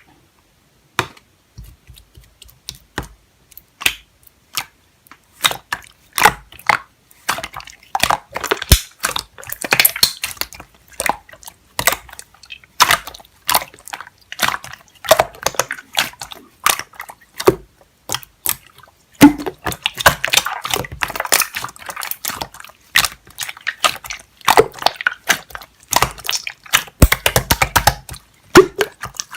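Wet, sticky material worked by hand, giving irregular runs of squishy clicks and crackling pops that come thicker in the second half.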